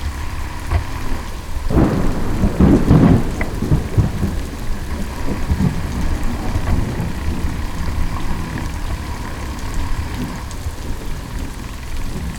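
Wind buffeting the microphone: a loud, rough low rumble under a hiss, swelling for a second or so about two seconds in.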